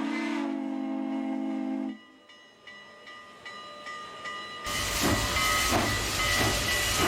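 Steam locomotive whistle blowing a steady note that stops about two seconds in. About five seconds in, a loud rush of steam hiss starts, with slow regular chuffs as the engine sets off.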